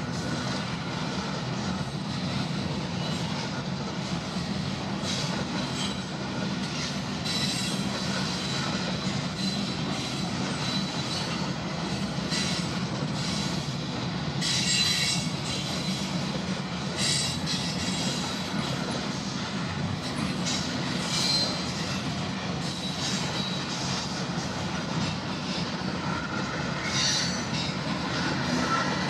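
Train cars rolling past with a steady rumble, the wheels squealing high-pitched on the rails in repeated short bursts.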